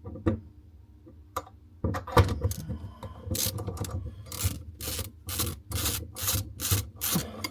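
A run of quick rubbing or scraping strokes, about two a second, from a few seconds in, after a couple of knocks.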